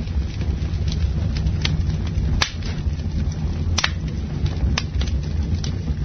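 Campfire burning with a steady low rumble, wood crackling throughout and three sharper pops in the middle.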